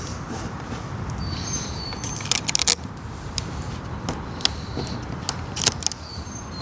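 Sharp clicks and taps against a steady low background: a quick cluster about two to three seconds in, then a few single ones later, with some short high chirps in between.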